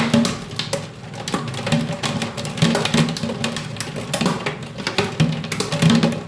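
Hailstones about 2 cm across pelting a hard surface in a dense, irregular clatter of sharp hits.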